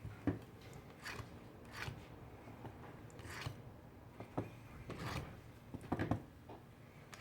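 Scattered short scrapes and clicks, about one a second, of small hand tools working softened adhesive off a phone's frame during a screen-glass repair.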